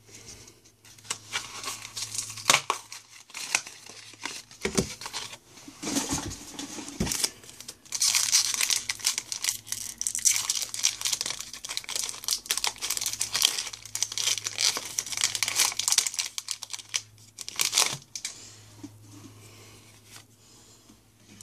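A Pokémon booster pack's foil wrapper being torn open and crinkled, with the cards handled. The crackling is densest in the middle and dies down near the end.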